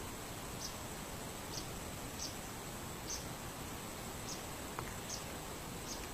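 A bird giving short, high chirps about once a second, over a steady hiss and a faint, steady high whine.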